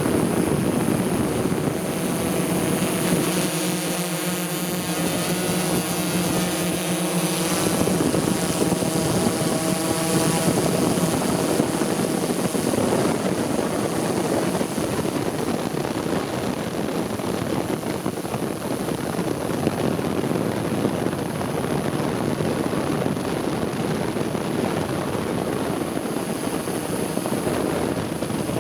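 Multicopter drone's propellers buzzing in flight. The buzz has a clear hum with overtones for the first eight seconds or so, then gives way to a steady rushing noise.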